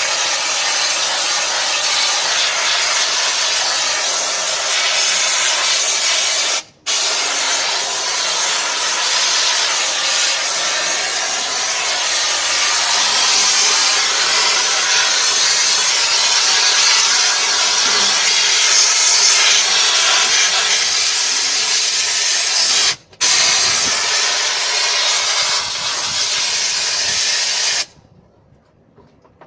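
Steady spraying hiss from a spray nozzle, cut off twice for a moment and stopping abruptly near the end.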